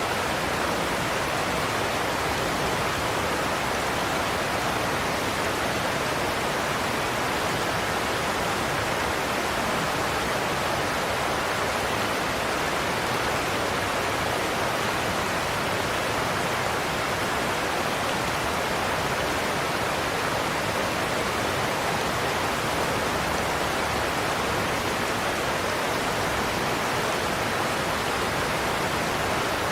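Godafoss waterfall: a steady roar of heavy water pouring over a cliff, an even rushing noise without breaks.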